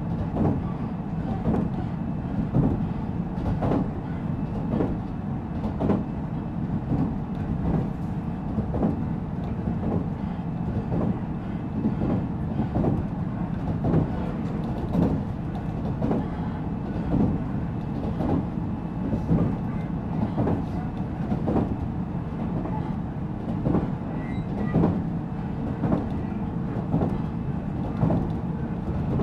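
JR Central 313 series electric train running at speed, heard from inside the motor car MoHa 313-7. There is a steady rumble of wheels and running gear, with regular rail-joint clacks about once a second.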